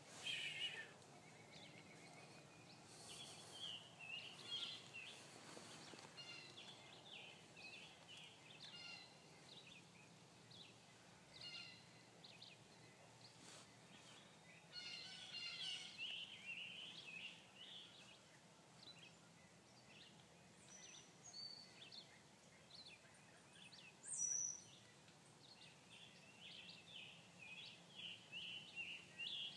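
Faint songbird chirps and song over a quiet outdoor hush, with one louder, high-pitched call about three-quarters of the way through.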